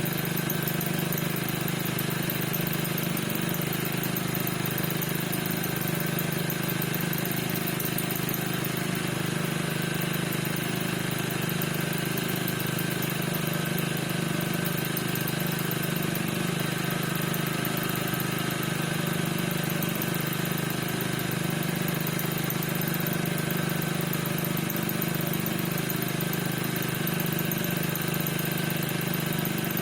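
Piaggio NRG 50 scooter's single-cylinder two-stroke engine idling steadily, with a squeak whose cause the owner is trying to find.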